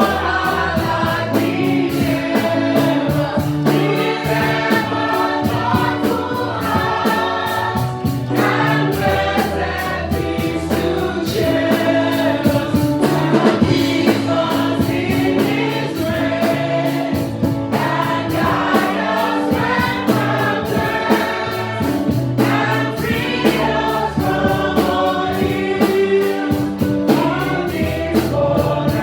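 Gospel choir singing a worship song with a band: several voices over steady bass and drum-kit percussion.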